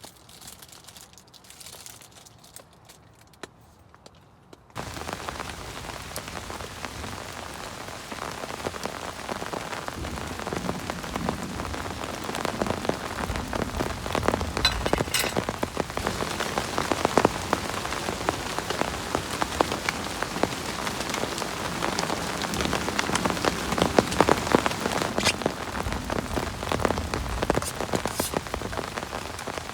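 Heavy rain falling on a surface, a dense hiss with many separate drop hits, that cuts in abruptly about five seconds in after a much quieter stretch.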